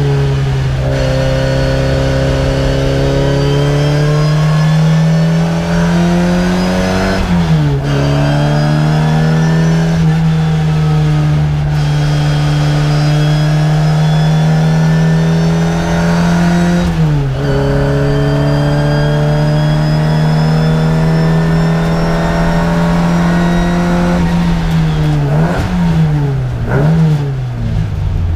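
Race car's engine heard from inside the cabin on a circuit lap: revs climb slowly through two long pulls, drop sharply about seven and seventeen seconds in, and rise and fall quickly several times near the end.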